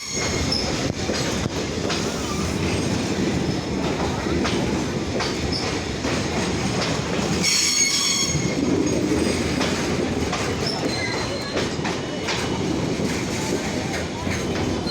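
Indian Railways freight train running on the rails: a steady rumble and clatter of wagon wheels with scattered sharp clanks, and a brief high wheel squeal about halfway through.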